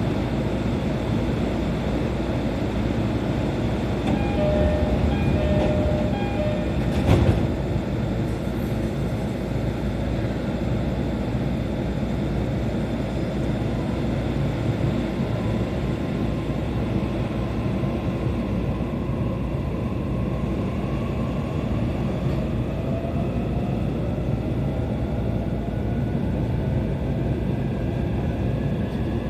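JR East E531-series electric train running, heard from inside the carriage: steady wheel and running noise, a brief set of tones about four seconds in and a sharp knock about seven seconds in. Later a motor whine climbs slowly in pitch as the train gathers speed.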